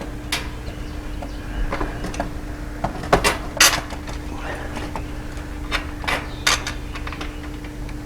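Scattered clicks and knocks of wooden chicken coop panels and metal bolts being handled during assembly, the loudest a few knocks about three and a half seconds in and another near six and a half seconds, over a steady low hum.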